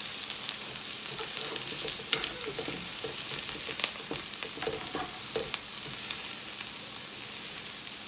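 Quesadillas sizzling on a hot comal, a steady hiss with scattered short clicks and scrapes from the food being turned and handled.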